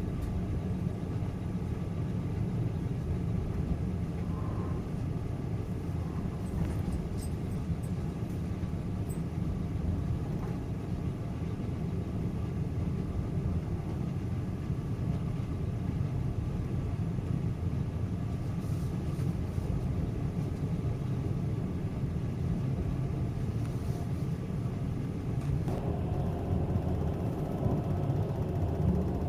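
Steady low rumble of a Trans-Siberian passenger train running on the rails, heard from inside the carriage. About 26 seconds in, a higher-pitched layer joins the rumble and it grows slightly louder.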